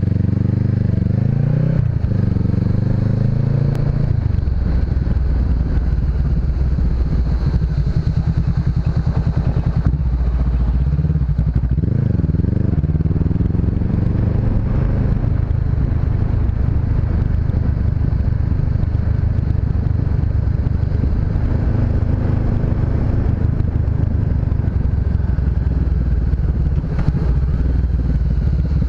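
Honda CB500X's parallel-twin engine running while riding, climbing in pitch twice near the start as it accelerates through the gears and again about twelve seconds in, otherwise holding a steady note.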